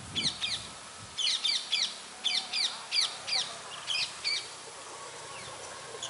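Wild bird calling outdoors: a rapid series of short, high chirping notes in quick clusters that stops a little over four seconds in.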